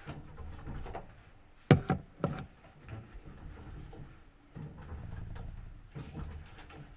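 Washing machine running: a low hum that stops and starts again, with two loud knocks about two seconds in and light clicking throughout.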